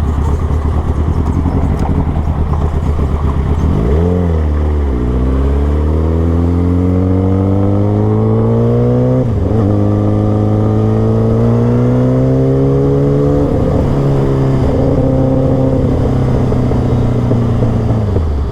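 Kawasaki ZX-10R inline-four with an aftermarket Master Racing exhaust, ridden with the throttle open: the engine pitch climbs in long pulls broken by quick dips at gear changes, then falls away near the end.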